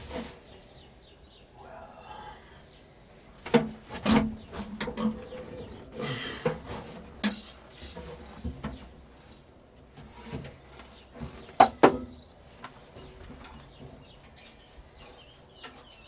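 Scattered metallic clinks and sharp knocks, with a loud close pair of knocks about three-quarters of the way through.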